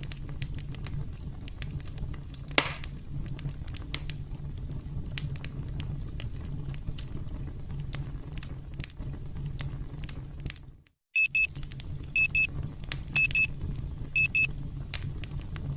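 Campfire crackling over a steady low rumble. About eleven seconds in, the sound cuts out for a moment and a countdown timer's electronic alarm beeps four times in quick pairs, about a second apart, marking the end of the count; the crackling carries on underneath.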